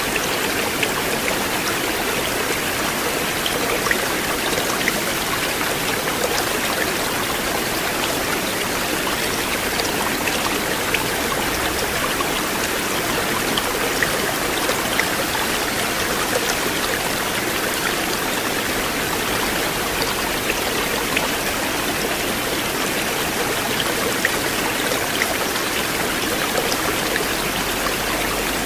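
River water flowing steadily, a continuous rush with small scattered splashes and drips.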